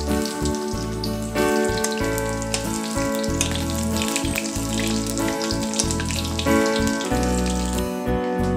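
Gram-flour-battered fritters shallow-frying in oil in a wok, sizzling with many small crackles. Background music with sustained chords plays over them.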